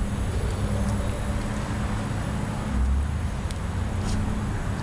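Steady low engine drone with an even hiss over it.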